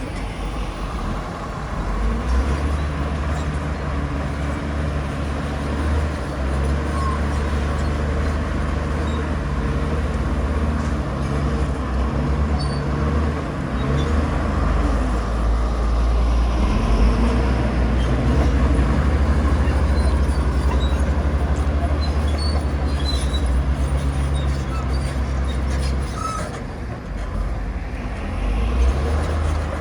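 Heavy diesel earthmoving machinery running: a deep, continuous engine rumble that rises and eases with load, dipping briefly about 26 seconds in before picking up again.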